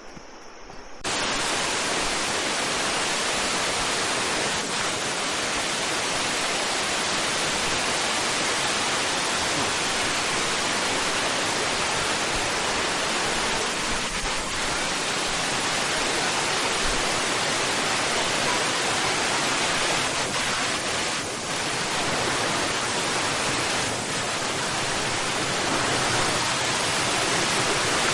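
Waterfall: a steady, dense rush of falling water that cuts in suddenly about a second in.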